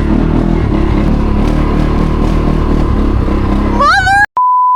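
ATV engine running steadily at idle. Near the end a voice rises in pitch and is cut off by a single-tone censor bleep.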